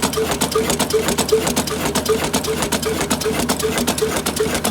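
Old diesel engine running steadily, beating about four times a second with a fast mechanical clatter over it.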